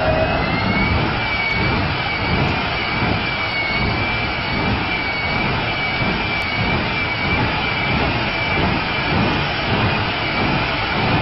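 Jet engine mounted on a truck running steadily: a loud rushing noise with a high whine that wavers slightly in pitch.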